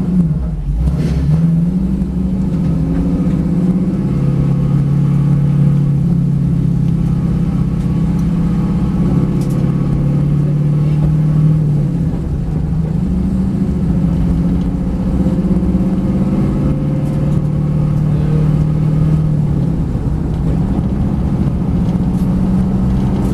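V8 race car engine running hard and loud, its pitch rising and falling several times as the revs change.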